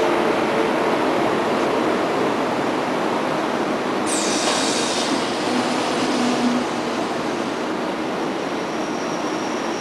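ICE high-speed train moving at walking pace along the platform, a steady rolling rumble. About four seconds in, a sharp high-pitched metallic squeal starts suddenly, dips slightly in pitch and dies away after about two and a half seconds.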